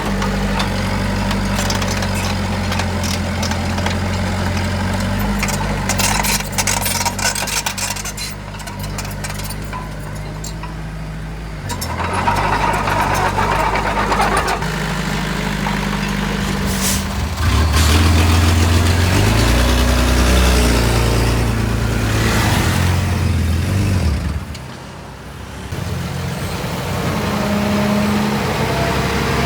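Heavy diesel engines of a dump truck and bulldozer at work, the engine note changing pitch several times. It grows louder about two-thirds of the way through, drops briefly, then rises again near the end.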